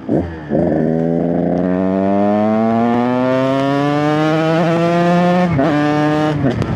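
KTM 125 EXC single-cylinder two-stroke dirt bike engine ridden: a quick throttle blip, then a long pull with the pitch climbing slowly for about five seconds, a brief break about five and a half seconds in, and easing off near the end. The rider says the bike isn't running great.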